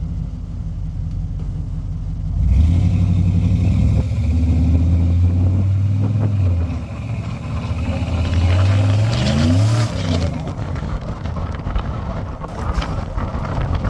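LS-swapped V8 in a Chevrolet C10 pickup pulling under throttle. It comes on loud about two and a half seconds in and holds steady, then eases off. It revs up again with a rising pitch and drops away suddenly about ten seconds in.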